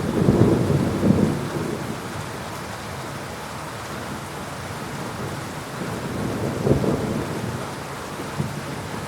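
Thunderstorm: heavy rain falling in a steady hiss, with thunder rumbling, loudest in the first second or so and again about two-thirds of the way through.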